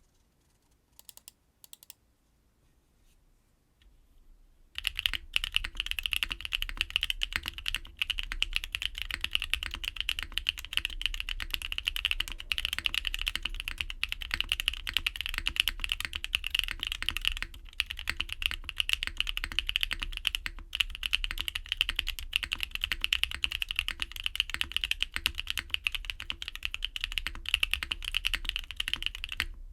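Fast, continuous typing on a custom mechanical keyboard: a Derivative Velvet WKL with a top-mounted polypropylene plate, lubed BSUN Raw linear switches and KKB Darling keycaps. It begins about five seconds in, after a few faint clicks, and pauses briefly a few times.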